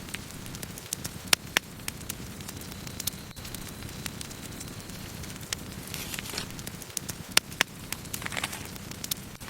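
Wood campfire burning: a steady low rush of flames with scattered sharp crackles and pops from the burning wood, the loudest a few cracks about a second and a half in and again past seven seconds. Two brief hisses come from the wood in the second half.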